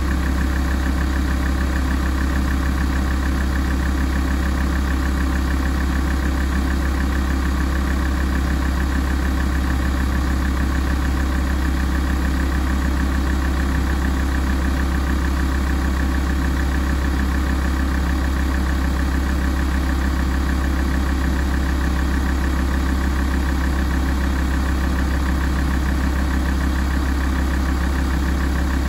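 Alfa Romeo 166 2.4 JTDm five-cylinder common-rail turbodiesel idling steadily while warming up, with an even, unchanging note.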